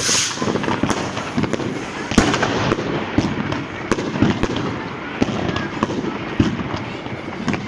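Fireworks and firecrackers going off in a street, a dense run of sharp bangs and pops over a steady crackling din, the loudest bang a little after two seconds in.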